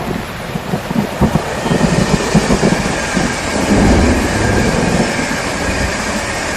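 Steady rain with the low, uneven rumble of thunder.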